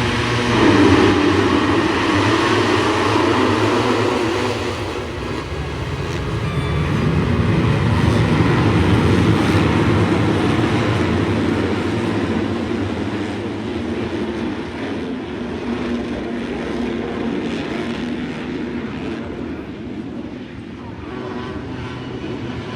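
Dirt bike engines running on a motocross track, swelling louder about a second in and again near the middle, then easing off.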